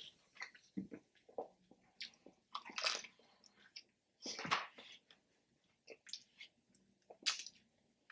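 Close-up biting and chewing of a piece of fried chicken: irregular crackly crunches and wet chewing, with three louder bites about 3, 4.5 and 7 seconds in.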